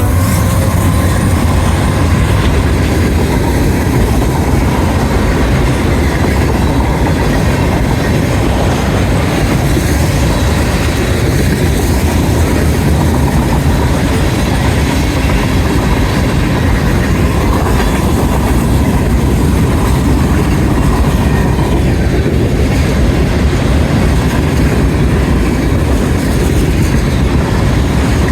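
Norfolk Southern freight train rolling past close by: a loud, steady rumble of the train and its cars, unbroken for the whole passage.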